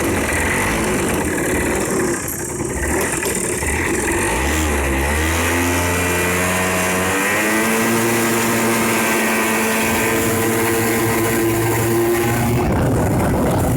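Yamaha Champ RS 50cc two-stroke scooter engine running in a racing kart. It dips briefly about two seconds in, rises in pitch as it picks up revs, holds a steady higher pitch, then breaks off near the end.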